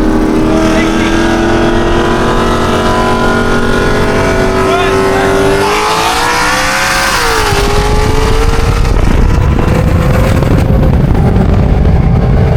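High-horsepower car engine pulling hard under acceleration, its pitch climbing steadily. About seven seconds in the pitch drops at a gear change, then climbs again.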